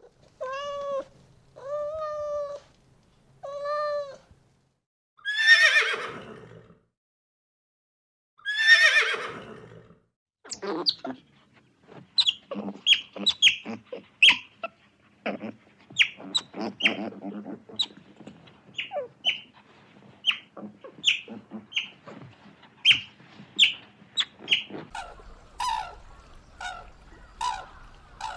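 A domestic cat meows three times, then gives two louder, drawn-out calls. These give way to a long run of short, high-pitched squeaks and chirps from sea otters. Near the end, lower calls come about once a second.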